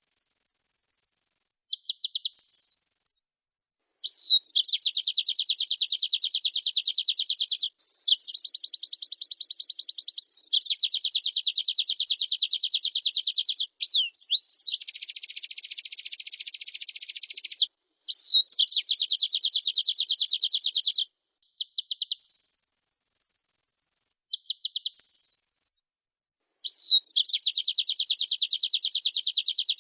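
White-eye (pleci) singing a run of very high, rapid trilled phrases, each a second to four seconds long with short pauses between, some phrases higher and thinner than others and one buzzier in the middle. This is a bird in full, varied song ('gacor full isian').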